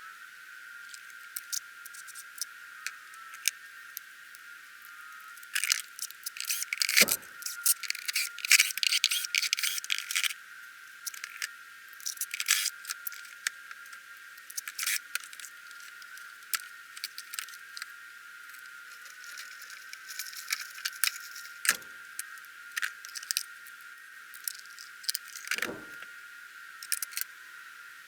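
Irregular clicking, clinking and rattling of small hard parts and tools being handled during a shop vac teardown, with a few sharper knocks. The handling is busiest about a quarter of the way in.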